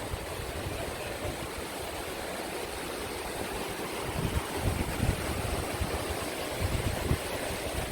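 Green River rapids rushing with a steady roar of water, with low buffeting of wind on the microphone that swells a few times.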